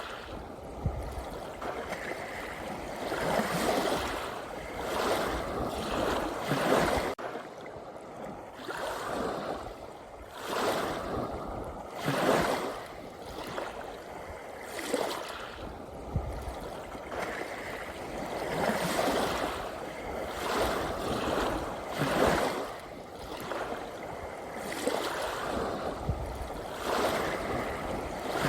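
Sea waves breaking and washing in, swelling and falling away every few seconds.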